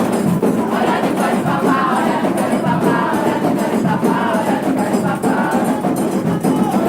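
A crowd of voices singing a chant together, steady and loud throughout.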